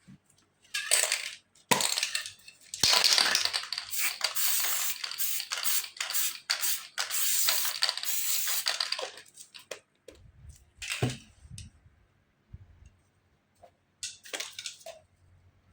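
Aerosol spray paint can hissing in bursts: a short spray, then a long one of about seven seconds broken by clicks, then two brief sprays near the end.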